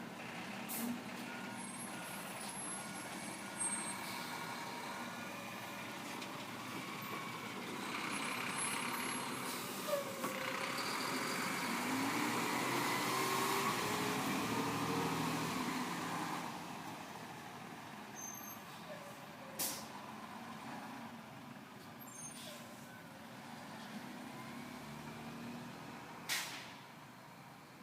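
Diesel garbage truck at work. Its reversing beeper sounds a short run of even beeps at the start, the engine revs up and down for several seconds in the middle, and a few short, sharp air-brake blasts stand out.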